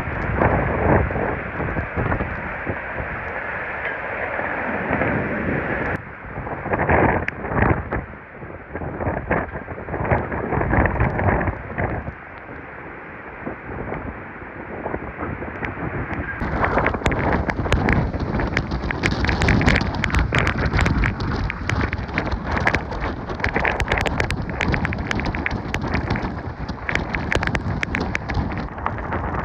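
Hurricane wind and rain battering the microphone in loud, irregular gusts. The sound changes abruptly twice, about six seconds in and again past the halfway mark, becoming brighter and harsher in the later part.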